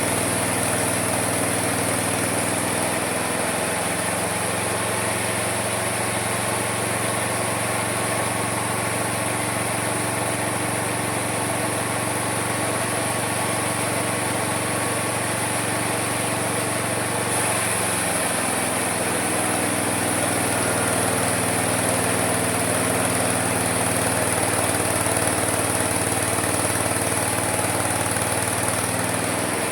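Homemade mini sawmill running with a steady engine-like hum. Its pitch shifts about three seconds in and again a little past halfway through.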